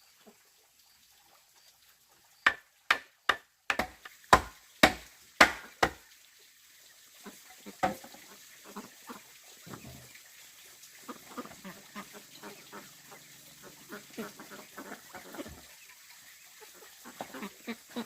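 A run of about eight sharp knocks, two or three a second, then a single knock and fainter scattered clatter, with a faint low steady hum in the second half.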